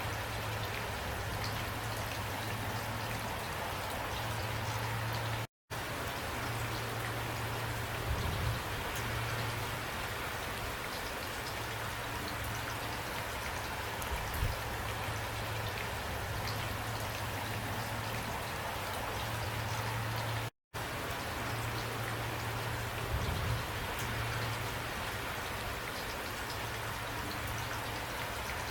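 Steady rain falling: an even hiss with scattered drop ticks and a low steady rumble underneath. The sound cuts out completely for a split second twice.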